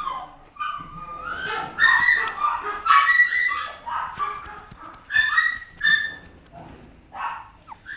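Papillon puppy yipping and whining in high-pitched calls: a run of them in the first half, two short yips later, and another at the end.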